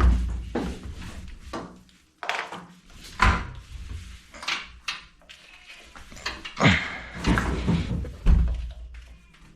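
A front-load washing machine being rocked and shifted by hand: several heavy thuds and knocks as it is tilted and set back down on the floor, with scraping between them.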